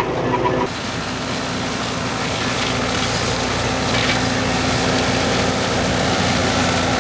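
Old farm tractor's engine running steadily. Less than a second in, a broad steady hiss joins the engine sound.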